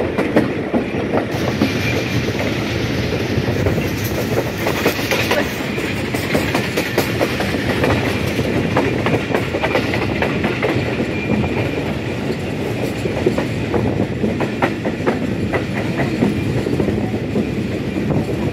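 Millat Express passenger train running on the track: a steady rumble with a rapid, irregular clatter of wheels over the rail joints.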